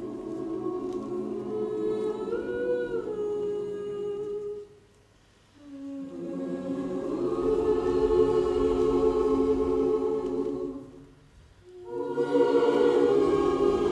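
A choir singing long held chords in three phrases, with short breaks between them about five and eleven seconds in.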